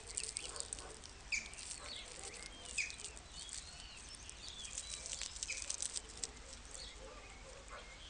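Faint outdoor ambience with scattered short bird chirps and light crackling clicks.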